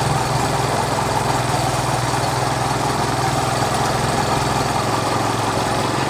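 Small engine driving a sugarcane juice crusher, running steadily at an even speed.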